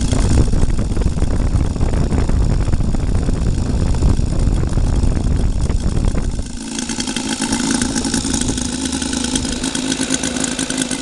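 Saito FA-200R3 three-cylinder radial model-aircraft engine with spark ignition, running on methanol and driving a propeller on a test stand: a low, uneven rumble at low speed, then about two-thirds of the way through it jumps to a steady, higher-pitched high-rpm run.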